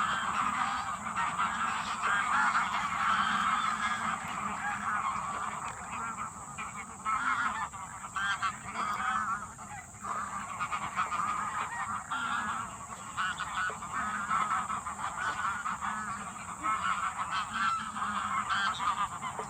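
A large flock of greylag and bar-headed geese honking together, many overlapping calls without a break.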